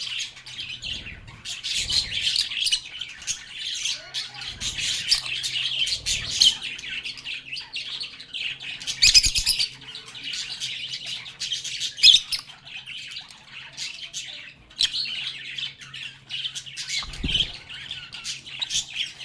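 A flock of lovebirds chirping and chattering continuously in quick, overlapping high calls, with a few louder, sharper squawks about nine and twelve seconds in. A faint steady low hum and a few soft low thumps sit underneath.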